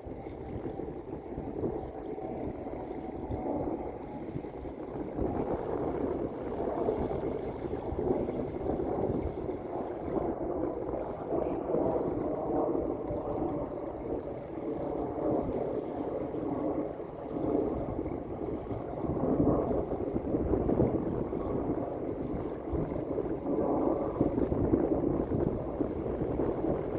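Small lake waves lapping and washing onto a beach: a continuous, uneven splashing wash that swells now and then, most strongly a little over two-thirds of the way in and again near the end.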